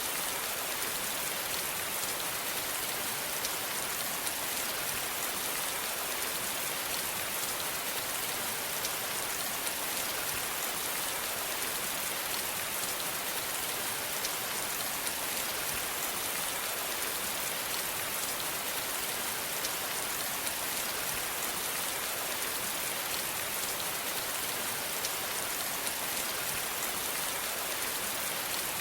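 Steady rain falling on a surface, a dense even hiss of many small drop ticks.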